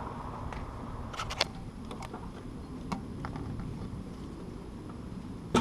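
A few light clicks and taps over a low steady background hum, with a sharper, louder click near the end: plastic oil filter parts being handled as the new filter and oiled O-ring are fitted.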